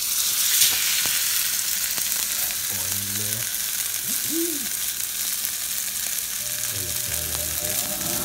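Tuna steak searing in smoking-hot bacon fat in a frying pan: a steady, hissing sizzle, sharpest about half a second in.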